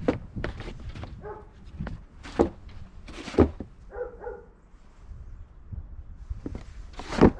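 Snow shovel scraping and striking on a snowy deck, with a few sharp knocks, the loudest near the end.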